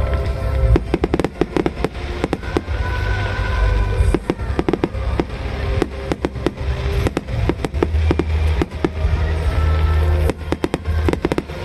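Fireworks display: volleys of sharp bursts and crackling reports over a deep rumble of booms, with music playing underneath. The reports come thickest about a second in, around four seconds in, and again near the end.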